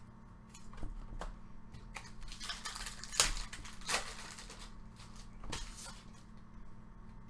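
Trading cards being handled and flipped through by hand: scattered sharp clicks and a papery rustle, the sharpest click about three seconds in.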